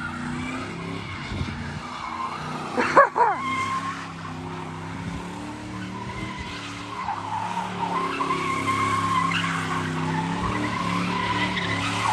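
Ford Mustang doing donuts: its engine held at high revs while the rear tires squeal steadily, with a short, loud burst about three seconds in.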